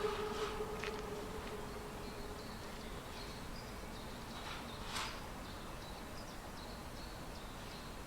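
Steam locomotive whistle dying away in the first second, then quiet outdoor background with faint high-pitched insect sounds that come and go. One sharp click about five seconds in.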